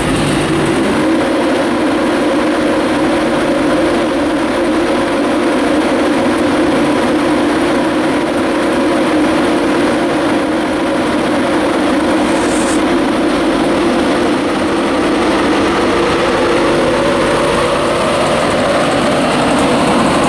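Class 91 electric locomotive on an InterCity 225 train pulling out and accelerating past, a steady heavy rumble, with a motor whine rising in pitch near the end.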